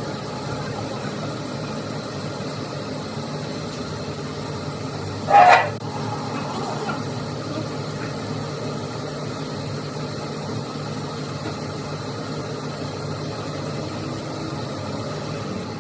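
A steady machine hum, with one short, loud sound about five seconds in.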